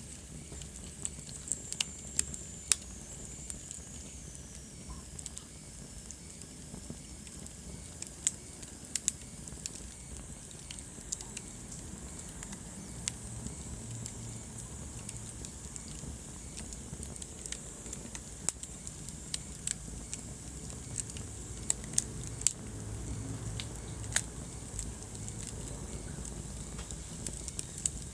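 Wood fire in a fireplace crackling: irregular sharp pops and snaps over a steady low rumble of the flames, with a faint high whistle falling in pitch a few seconds in.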